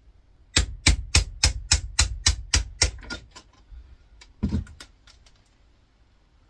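A quick run of about ten sharp taps on metal, roughly three or four a second, fading off, then a single duller knock a little later, from working on a metal part of an air fryer's fan assembly.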